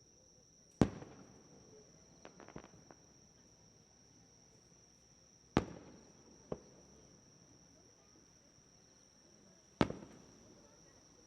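Aerial fireworks shells bursting: three loud bangs a little over four seconds apart, each trailing off in a rolling echo, with a short run of small crackles after the first and a lighter pop after the second.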